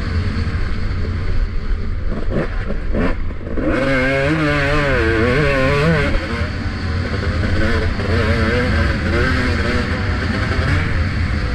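Motocross bike engine revving up and down under hard riding, with heavy wind buffeting on a helmet-mounted camera. About three seconds in the engine note drops off the throttle, then climbs and wavers through quick throttle changes.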